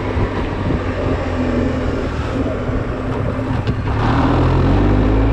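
Honda Silver Wing scooter engine running under way, mixed with wind noise on the camera microphone; it gets louder about four seconds in.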